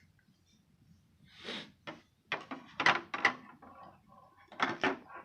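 A run of sharp knocks and clatters of hard objects being handled, with a short scrape between them. The loudest knocks come about three seconds in and again near the end.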